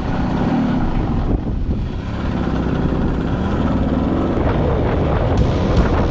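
Suzuki K90's 90cc single-cylinder two-stroke engine running under way, its revs rising and falling, with wind rushing over the microphone.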